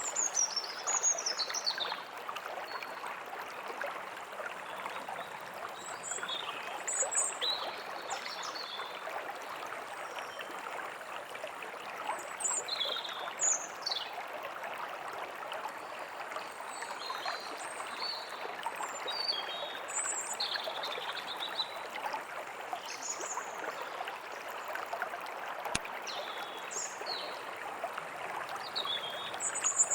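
A small stream burbling steadily, with several songbirds chirping and calling over it in short phrases, and one sharp click near the end.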